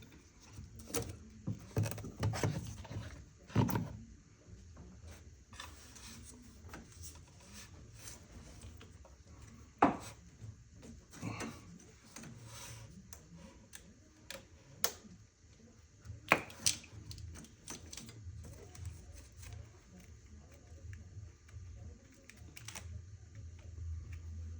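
Scattered clicks, knocks and light rattles of engine-bay parts being handled by hand, with a few sharper knocks about 4, 10 and 16 seconds in.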